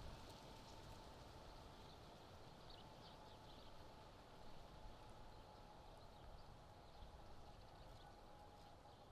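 Near silence: faint steady background hiss with a thin, steady hum.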